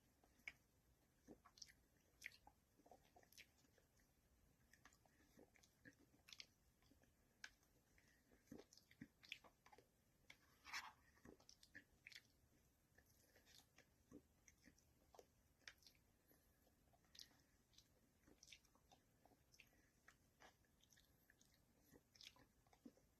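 Faint eating sounds of someone spooning up and eating soft, half-melted ice cream: scattered small mouth clicks and chewing noises, over near silence.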